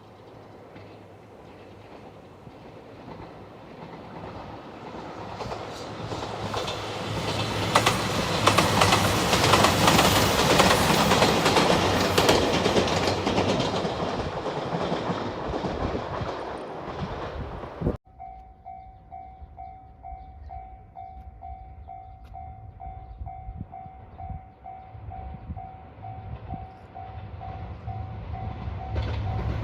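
A train passes over a level crossing, its rolling noise and clattering wheels building to a loud peak and fading. After a sudden cut, a railway crossing alarm rings with a steady electronic ding, about two to three a second, while the rumble of another approaching train rises near the end.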